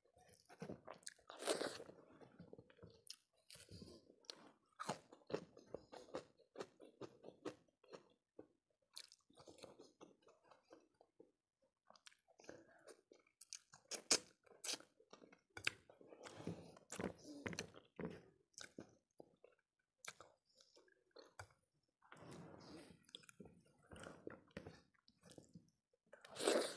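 A person chewing mouthfuls of food close to a clip-on microphone, with irregular crunchy bites; the loudest crunches come about halfway through and right at the end.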